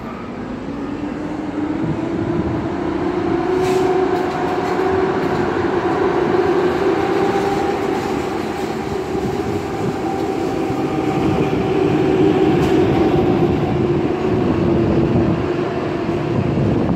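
Electric train at a station platform giving off a steady electrical whine. It rises in pitch and grows louder over the first few seconds, holds steady, and drops away just before the end.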